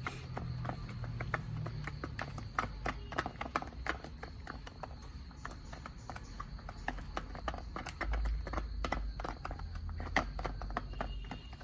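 Chickens pecking at their food: a rapid, irregular run of sharp taps and clicks, several a second, over a low rumble.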